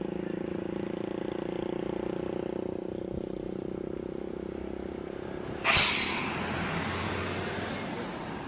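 A heavy diesel engine runs steadily. About five and a half seconds in, a sudden loud hiss of air cuts in and fades away over about a second, like a heavy vehicle's air brakes releasing, with a low engine rumble going on beneath it.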